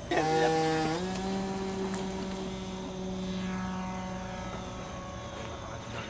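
Radio-controlled model aircraft's motor and propeller running; its pitch shifts within the first second, then holds steady.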